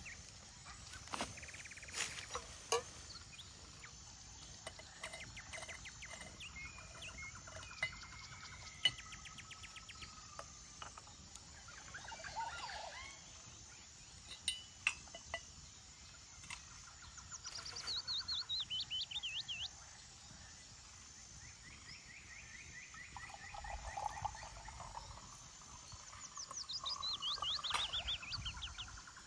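Small forest birds chirping and singing, with two falling trilled phrases in the second half. A few short clicks and knocks, mostly in the first half.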